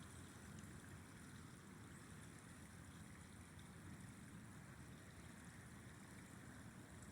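Faint, steady rush of a flowing river, a low even wash of water with no distinct events.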